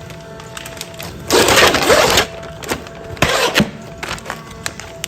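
Pneumatic food-container sealing machine working through its cycle: clacks from the mechanism, a loud hiss of air lasting about a second, then more clacks and a shorter hiss.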